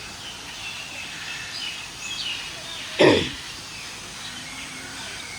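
Outdoor background of birds chirping faintly, with one loud short sound about three seconds in that drops sharply in pitch.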